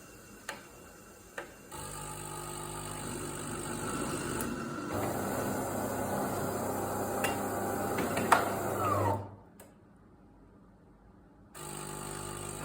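DeLonghi ECAM 23.266.B coffee machine running its milk system with a hum and a rough, rasping rattle: the strange noise it makes when drawing milk or flushing the milk tank. After two small clicks it starts, stops about seven seconds later, and starts up again near the end.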